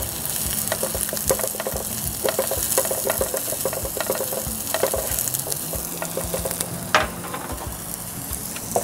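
Sliced onions, garlic and ginger sizzling in oil in a nonstick frying pan while a plastic slotted spatula stirs and scrapes them. There is a steady hiss with small scraping clicks, and one sharper click about seven seconds in.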